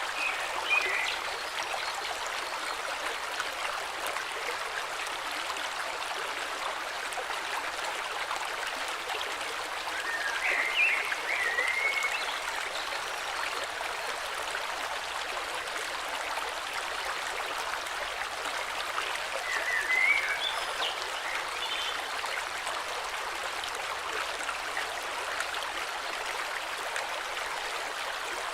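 A river flowing steadily, with a bird singing short chirping phrases a few times: about a second in, around ten seconds and around twenty seconds.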